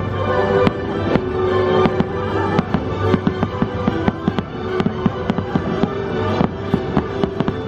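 Fireworks going off in a rapid string of sharp bangs, several a second, over the fireworks show's music.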